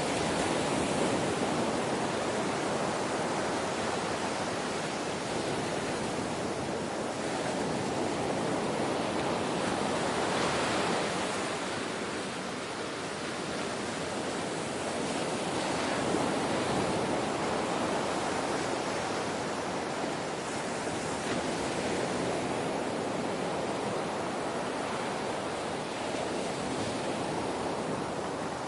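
Ocean waves breaking and washing on a shore in a continuous wash, swelling and easing every several seconds.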